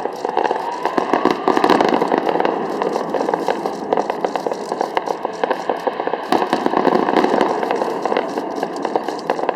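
Fireworks crackling continuously with many rapid pops, and a rising whistle in the first second or so.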